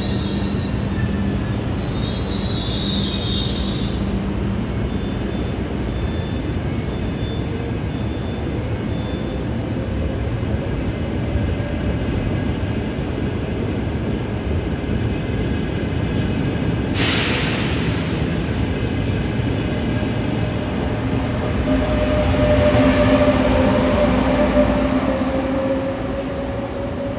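Train running through a station: a steady rumble of wheels on rail, with a high wheel squeal in the first few seconds and a sudden rush of noise about two-thirds of the way through, loudest a little after that.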